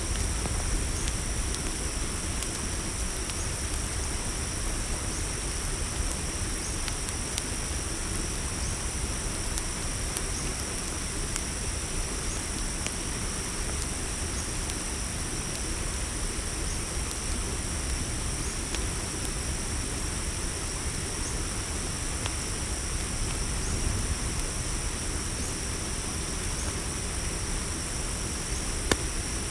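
Steady night chorus of crickets over a low, even rumble, with scattered small crackles of a campfire and one sharper pop near the end.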